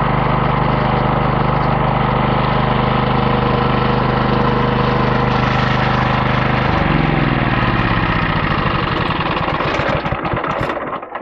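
The 14 hp 420cc single-cylinder engine of a homemade bandsaw sawmill running steadily at speed, then shut off about seven seconds in and winding down, its pitch falling until it stops.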